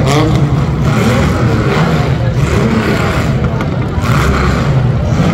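Demolition derby compact cars' engines running together with a heavy, loud rumble, their pitch rising and falling as they are revved.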